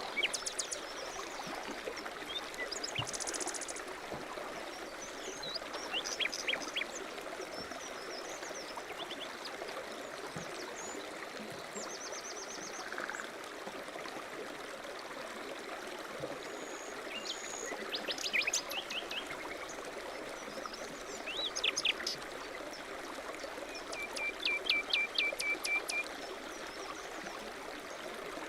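A stream running steadily, with small birds chirping and trilling over it at intervals; a quick run of repeated short notes near the end.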